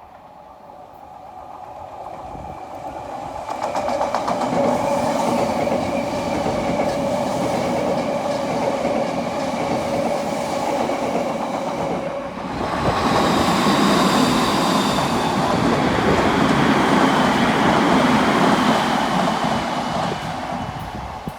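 Odakyu electric commuter trains passing at speed: a steady motor whine with wheels clicking over rail joints, then, about halfway through, a second loud pass with higher whining tones before it fades.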